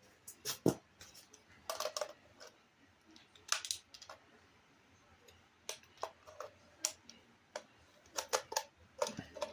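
Scattered clicks and knocks of hard plastic parts being handled: the hull, top and hatch pieces of a remote-control race boat being taken apart and fitted.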